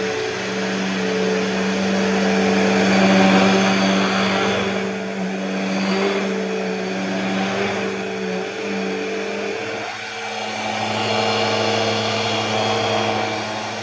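Bissell PowerTrack Revolution upright vacuum cleaner running, a steady motor hum that swells and dips every few seconds as it is worked over the floor. Its brush roll sounds a little bit weird.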